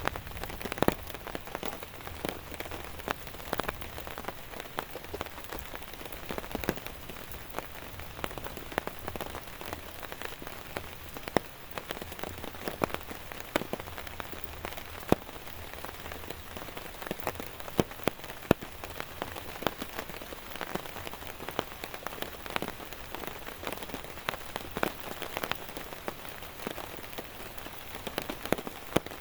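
Rain falling steadily, with many sharp, irregular drop hits standing out over an even hiss.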